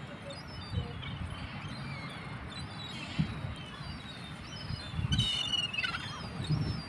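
Birds chirping and twittering outdoors over a steady low rumble, with a louder burst of calls and a falling sweep about five seconds in.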